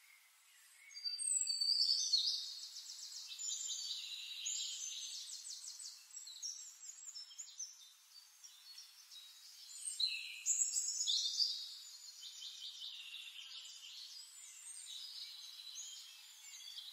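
Birds singing in phrases of rapid, high trills and chirps, starting about a second in.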